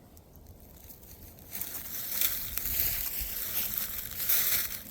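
Rustling and crunching through dry leaves and brush, starting about one and a half seconds in and running on as an irregular crackle of steps and movement.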